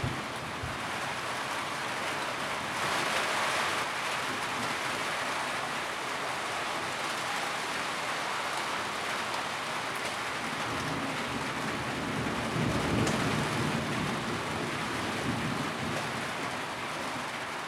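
Steady rain drumming on a tin roof in an even hiss, swelling briefly a few seconds in, with a low rumble rising and fading about twelve seconds in.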